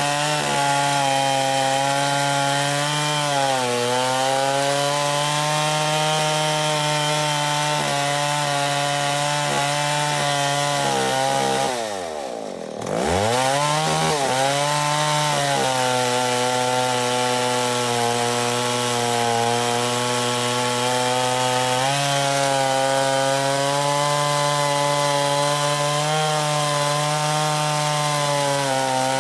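Stihl Contra Lightning two-stroke chainsaw, enlarged to 137 cc, running at high, steady revs. About twelve seconds in the revs drop sharply almost to nothing, then climb straight back up to the same steady speed.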